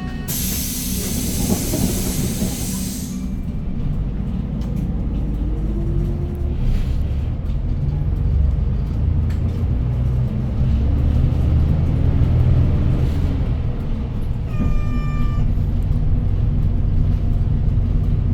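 Inside a moving city bus: a loud hiss of compressed air for about the first three seconds, then the bus's engine and running gear rumbling as it pulls away, the rumble swelling and easing. A short electronic beep comes about fifteen seconds in.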